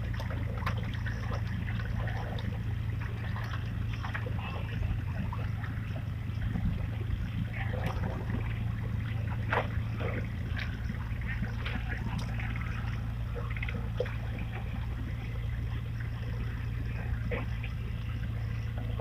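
River ambience: a steady low motor hum with water sounds, and scattered small clicks and brief higher sounds throughout.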